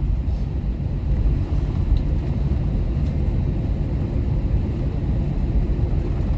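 Steady low rumble of airliner cabin noise on the ground after landing.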